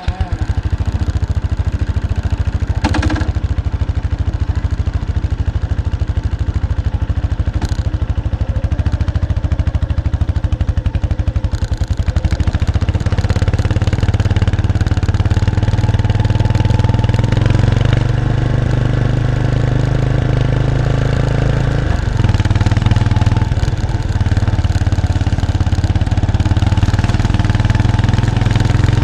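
Exhaust note of a 1993 Kawasaki Estrella's 250cc single-cylinder engine through its stock muffler, recorded close to the exhaust, running with a steady low pulse. About twelve seconds in it gets louder as the revs rise, and around twenty-two seconds in there is a brief dip, like a gear change.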